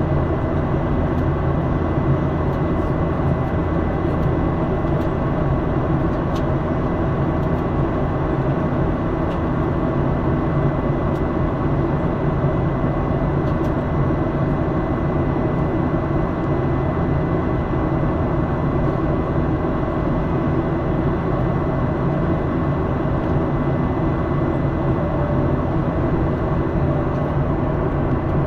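Steady roar of jet engines and airflow heard inside an airliner's cabin in flight, with a thin steady tone riding above it.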